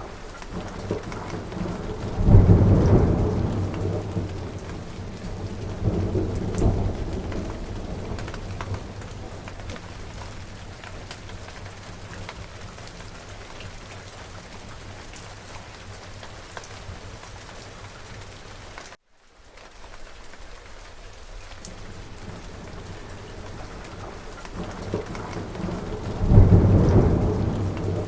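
Steady rain falling, with rolls of thunder: a loud rumble a couple of seconds in, a smaller one a few seconds later, and another loud rumble near the end. The sound drops out for a split second about two-thirds of the way through.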